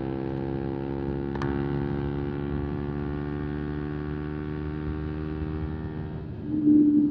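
125 cc single-cylinder motorcycle engine with an Arrow exhaust, held at steady high revs at cruising speed. There is a sharp click about a second and a half in, and a brief louder tone near the end.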